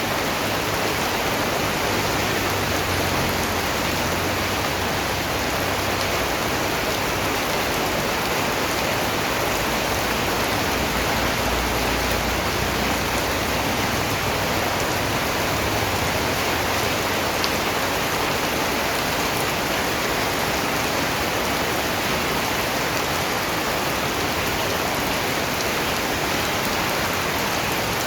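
Steady rain falling, an even hiss of drops on surfaces with no change in level.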